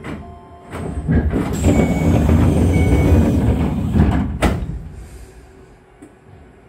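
Electric commuter train sounds at a station: a loud rumbling rush lasting about three and a half seconds, set off by sharp knocks, one near the start and one as it ends.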